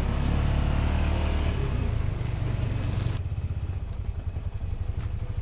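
ATV engine running with a steady low rumble and hiss. About three seconds in, the hiss drops away and the engine settles to a slower, regular pulsing beat.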